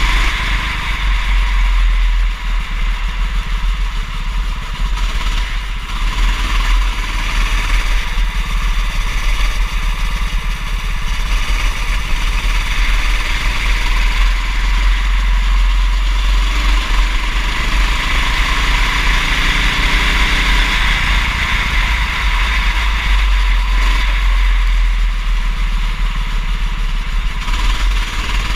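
Racing kart engine running at speed, its note swelling and easing every few seconds, over a steady low rumble.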